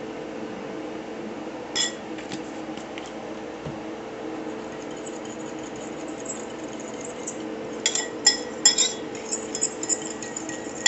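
A metal spoon clinking against a glass bowl while stirring a dipping sauce: one clink about two seconds in, then a quick run of ringing clinks near the end. A steady low hum sits underneath.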